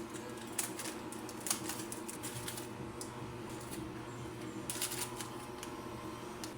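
Typing on a computer keyboard: two short runs of key clicks, the first lasting a couple of seconds and the second coming about two-thirds of the way through, over a steady hum.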